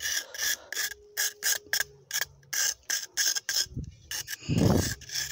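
Machete scratching into soft sandstone in quick short rasping strokes, about four or five a second, with a heavier thud about four and a half seconds in.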